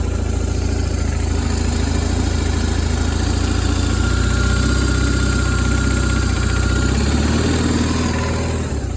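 A 2002 BMW R1150RT's air/oil-cooled boxer twin idling shortly after being started. The engine note shifts slightly about three seconds in and again near seven seconds.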